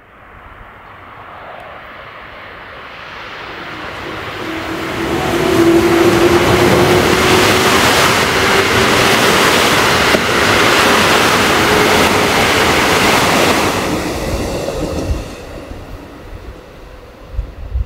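Train passing through at speed: a rushing rumble that builds over about six seconds, stays loud for about eight, then fades away. A faint humming tone climbs slowly in pitch through the loudest part.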